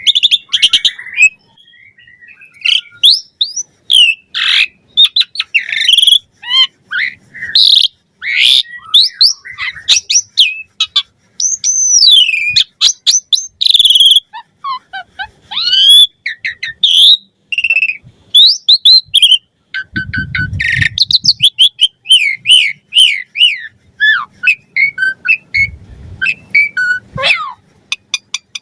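Asian pied starling (jalak suren) singing a long, varied song: fast chirps, rattling trills and loud whistles that glide up and down, with hardly a pause.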